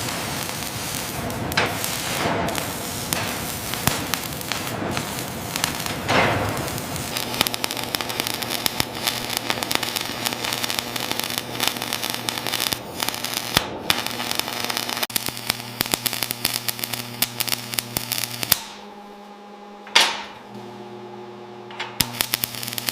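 Electric arc welding crackling and sputtering, with a steady electrical hum underneath from about seven seconds in. The crackle thins out and drops away near the end, apart from one sharp burst.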